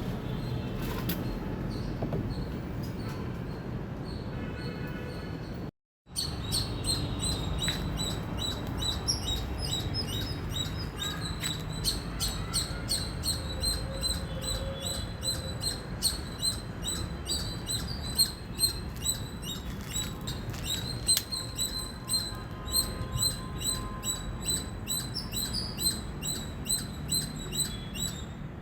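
Indian palm squirrel chirping: a long, steady run of short, high, repeated chirps, picking up after a brief cut about six seconds in.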